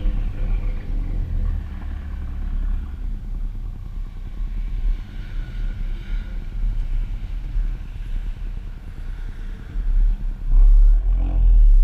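2014 Ford Focus ST's turbocharged 2.0-litre four-cylinder running through a custom 3-inch exhaust, a steady low rumble. It swells louder near the end.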